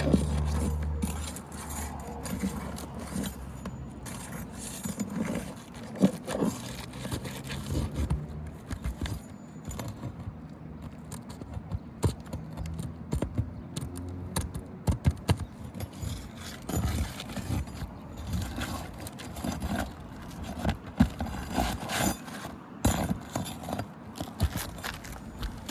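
Hand tools scraping and clicking against asphalt roof shingles, with scattered sharp knocks, as the shingle courses are worked loose and refastened for a repair test.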